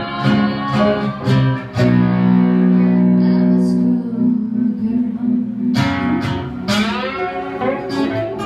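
Blues band playing live, led by guitar. A long chord rings out in the middle, then bent guitar notes rise over sharp percussive hits.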